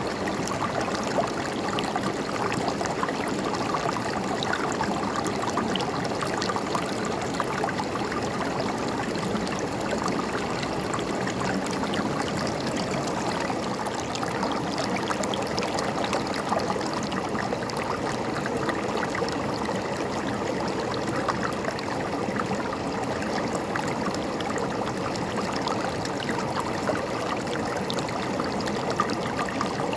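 Shallow river flowing steadily over stones, a constant rushing with fine splashing and gurgling.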